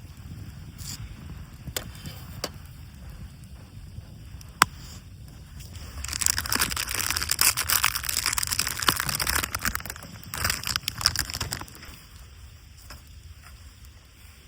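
Dry wood crackling and snapping: a few sharp isolated snaps, then several seconds of dense crackling from about six seconds in that dies down near the end.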